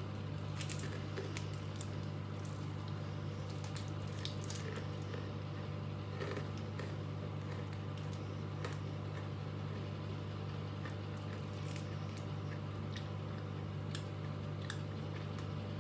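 A person chewing a bite of honeycomb chocolate bar, with small scattered mouth clicks, over a steady low hum.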